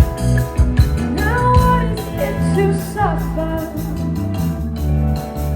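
Rock band playing live through an instrumental passage between verses, with a steady bass and drum groove under guitar. A few sliding high notes rise over it around one and three seconds in.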